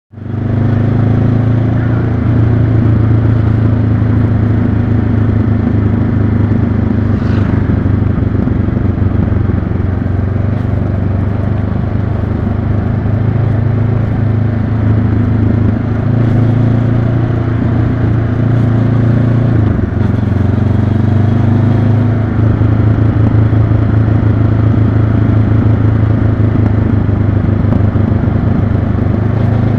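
Honda CB500X motorcycle's 471 cc parallel-twin engine running steadily under way, heard close up, with a brief dip in the engine note about twenty seconds in.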